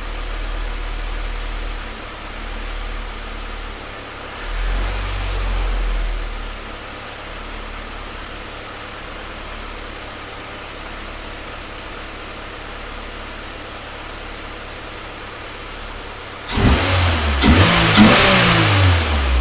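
Five-cylinder car engine idling rough with a steady low hum that swells briefly about five seconds in. About three seconds before the end the throttle is opened sharply, and the engine revs up and back down, much louder.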